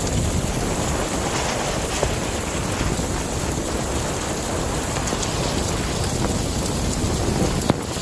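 Heavy rain falling steadily in a thunderstorm, a continuous even rushing noise with a brief tap near the end.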